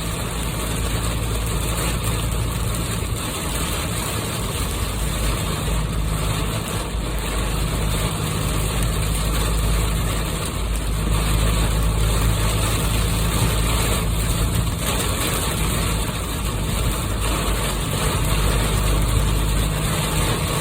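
Heavy rain hissing on a moving vehicle, over the steady low drone of engine and tyres on the wet road, heard from inside the cabin.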